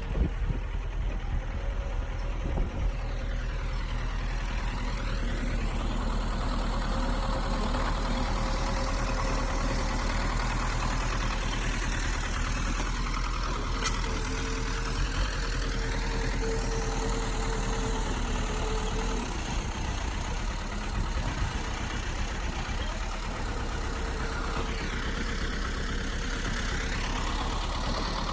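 Bulldozer's heavy diesel engine running steadily, with no breaks.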